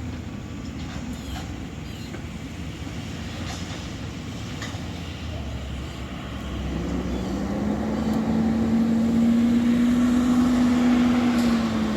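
Autocar garbage truck running. About halfway through, its pitch rises and it gets louder. It holds high for a few seconds, then drops back near the end.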